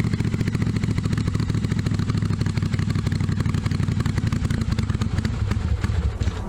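1982 Yamaha Virago 750's air-cooled V-twin engine running with an even beat, then firing unevenly for a moment and cutting out near the end.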